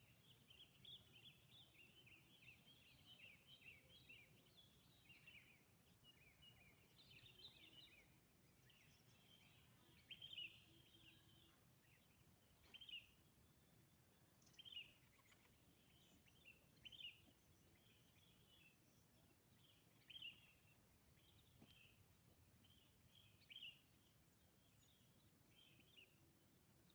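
Faint bird calls: a quick run of twittering notes for the first eight seconds or so, then single sharp calls repeated every two to three seconds.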